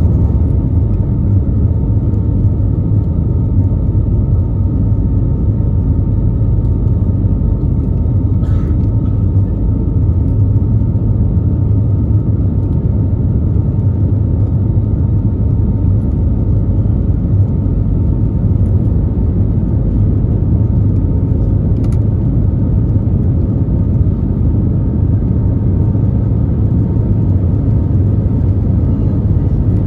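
Steady engine and airflow rumble inside the cabin of an Airbus A320neo with CFM LEAP-1A engines, with a faint steady tone above it and a couple of faint clicks.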